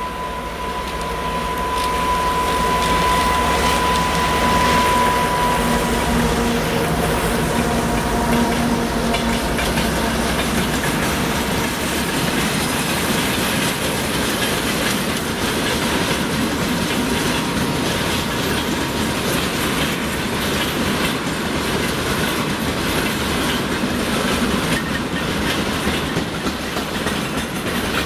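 2TE10MK twin-section diesel locomotive passing under power, its engine sound carrying a steady high whine that grows louder then fades over the first several seconds. A long train of tank cars then rolls by, wheels clattering over the rail joints.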